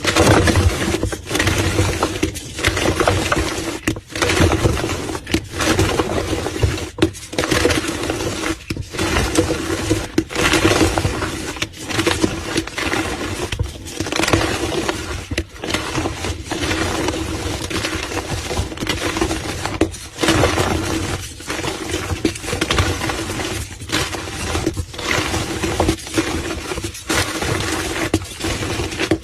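Blocks of gym chalk being crushed and crumbled: dense, continuous crunching with brief pauses every second or two.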